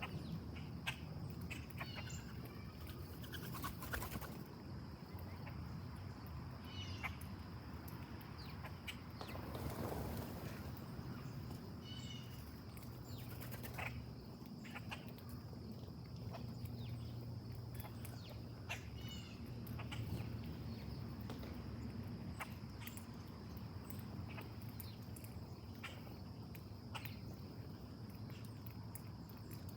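Outdoor ambience of songbirds giving scattered short chirps and calls, with occasional light clicks, over a steady high-pitched insect drone.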